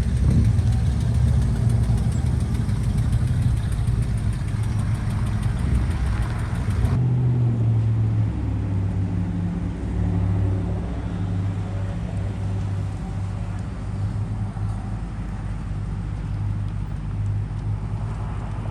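Car engines running, with an abrupt cut about seven seconds in to a steadier, lower engine drone.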